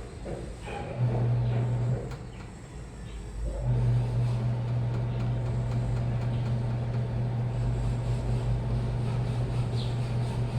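Washing machine motor humming as it drives the drum: a short run about a second in, then steady running from about three and a half seconds in, with softer sloshing and tumbling noise early on.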